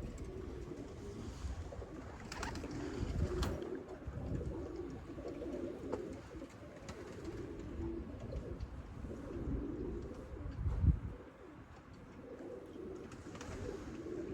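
Domestic pigeons cooing steadily, a low warbling murmur, with occasional low rumbling bumps, the loudest about eleven seconds in.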